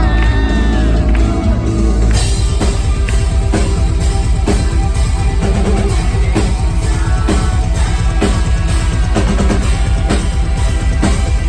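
Heavy metal band playing live and loud. A held chord rings for the first two seconds, then the drums come in with a fast, steady pounding of the bass drum under the guitars.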